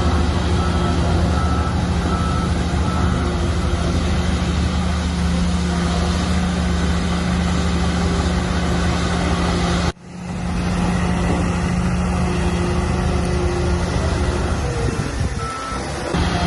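Shantui crawler bulldozer's diesel engine running steadily under load, with a reversing alarm beeping in short, even beeps for the first few seconds. The drone breaks off for an instant about ten seconds in and picks up again.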